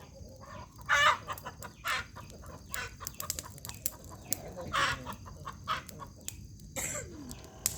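Chickens clucking, with a few louder squawks, over the sharp crackling and popping of a wood bonfire.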